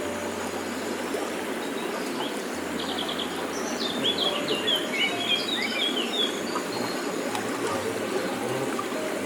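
A forest stream running steadily, with a small bird singing a quick run of high chirps and trills in the middle.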